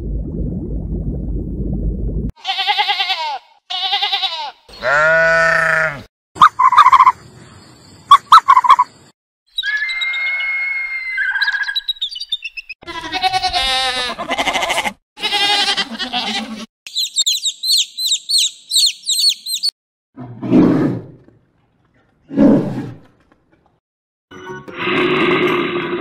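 A string of different animal sounds cut one after another. A low underwater rumble comes first, then a run of short pitched calls, with sheep bleating about midway, then rapid high chirps and two low calls.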